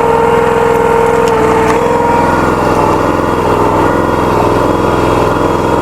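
Log splitter's small gasoline engine running steadily. Its pitch dips briefly about a second and a half in.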